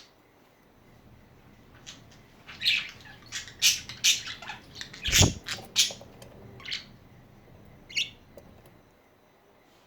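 Pet budgerigars chirping and squawking in a string of short, sharp calls, busiest through the middle, with one louder thump about halfway through.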